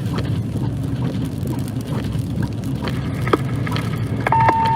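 Steady low rumble of a running vehicle heard from inside the cab, with a few faint clicks. Near the end a steady beep tone starts from a radio scanner, the first of a fire dispatch's two-tone alert.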